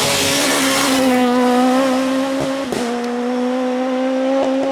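Suzuki Swift S1600 rally car's 1.6-litre four-cylinder engine held at high, nearly steady revs, broken twice past the middle by brief sharp clicks.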